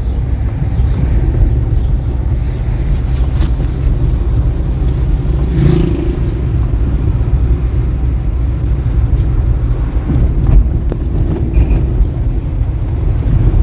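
Steady low rumble of a running motor vehicle, with a few faint knocks.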